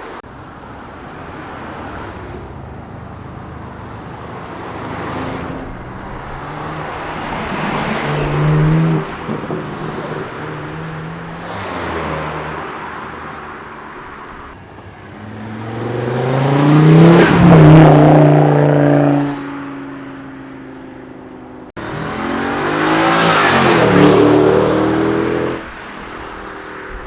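Several cars accelerating hard past one after another, engine pitch climbing as each pulls through the gears and then dropping as it passes. The loudest pass comes about two-thirds of the way through, and another loud one follows after an abrupt cut near the end.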